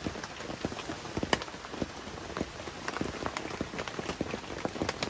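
Rain pattering on tent fabric in strong gusty wind: a steady hiss with many irregular sharp drop impacts, a few louder than the rest.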